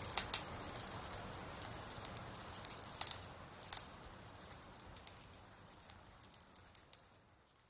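Faint hiss with scattered small clicks and ticks, a few louder ones near the start and middle, dying away toward the end.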